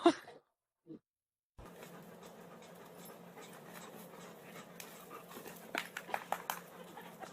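A dog panting, starting about a second and a half in, with a few short sharp sounds near the end.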